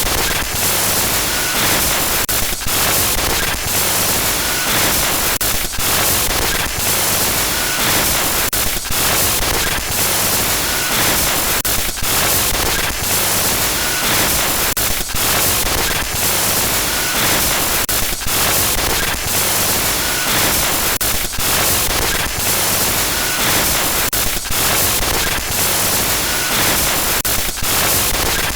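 Loud glitch-noise sound effect: harsh static hiss across all pitches, cut by brief dropouts that repeat about every three seconds, as a looped pattern.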